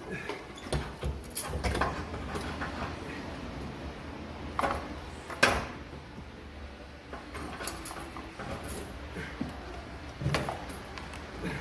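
Scattered metallic knocks, scrapes and clatter of an exhaust manifold and turbo being worked loose and pulled about in a car's engine bay. The loudest is one sharp knock about five and a half seconds in.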